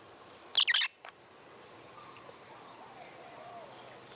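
Pet lovebirds giving a brief burst of shrill, high-pitched chirps about half a second in.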